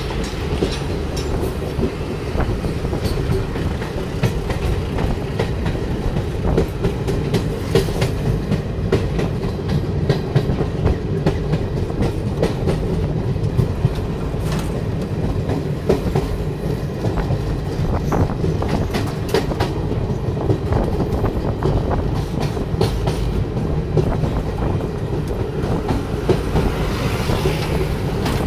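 A moving train heard from on board: a steady rumble of wheels on rail, with sharp clacks from the rail joints scattered throughout.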